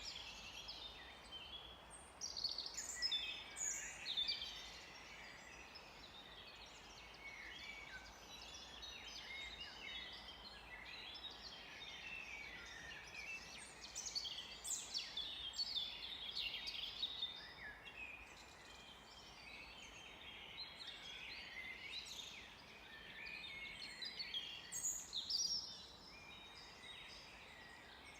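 Several songbirds singing and chirping at once in a forest, overlapping trills and short high notes, with louder bursts of song around 3 seconds in, about halfway, and near the end.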